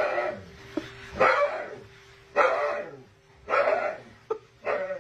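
A dog barking repeatedly, about five barks roughly a second apart.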